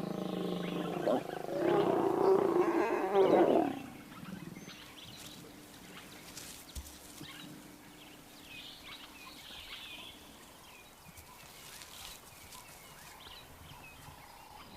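Lions mating: a loud, rough lion growl lasting about three seconds. It is followed by faint, quiet bush ambience with small high chirps.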